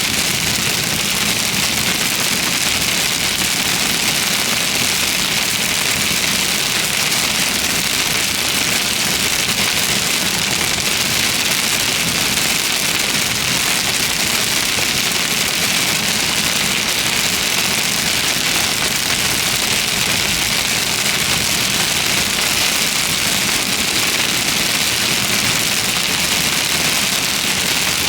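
Heavy thunderstorm rain hitting a car, a loud, steady hiss that never lets up, with a low vehicle rumble underneath.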